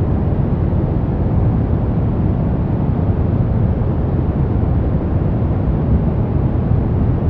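Continuous noise track sold as white noise, weighted heavily toward the low end so it sounds as a deep, even hiss-rumble rather than a bright hiss; steady with no changes.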